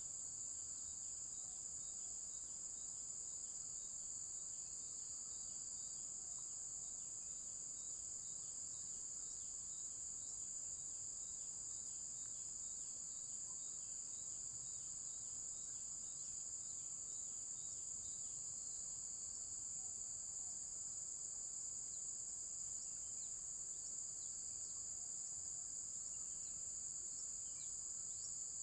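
Insect chorus: a steady, high-pitched shrill that runs without a break, with a fainter chirp repeating about twice a second through the first half.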